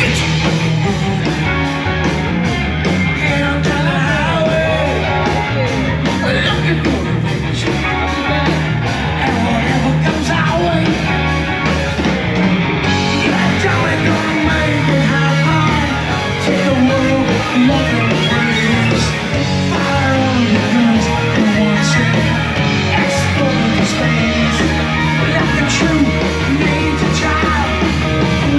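Rock music with electric guitar and a singing voice.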